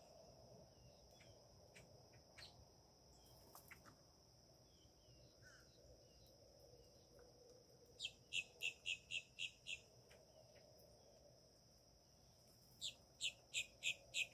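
A bird calling two quick series of sharp, high notes, about five a second, over a steady high-pitched tone that is likely insects.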